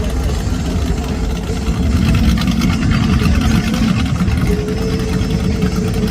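Vehicle engines idling and running in slow street traffic, a steady low engine sound with no sudden events.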